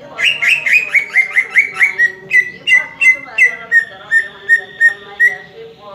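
Green leafbird (cucak ijo) singing a fast series of loud, sharp notes, about four a second. The first notes sweep downward in pitch, and the later ones settle into a steady repeated note.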